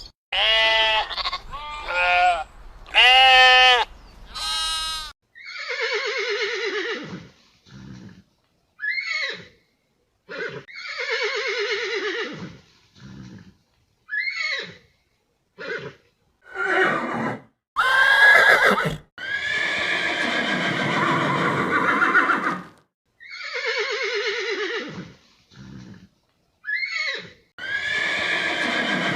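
Bleating, several short wavering calls, for the first five seconds or so, then a horse neighing and whinnying again and again, each call a falling cry of one to three seconds.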